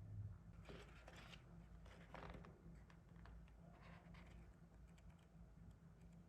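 Near silence: room tone with a few faint rustling, handling noises.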